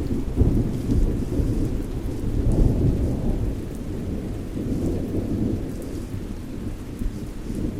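Thunder rumbling low and continuously over steady rain, the rumble swelling in the first few seconds and then easing.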